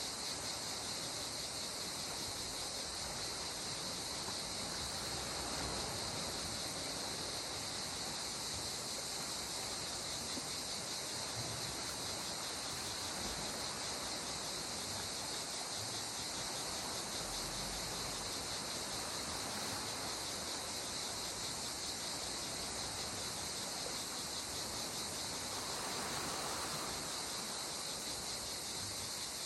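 Steady, high chorus of insects, with a soft wash of gentle sea water beneath that swells a little near the end.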